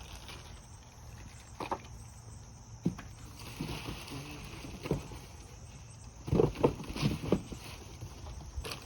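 Scattered knocks and clicks of plastic pressure-washer parts being handled, sparse at first and bunched together and louder about six to seven seconds in.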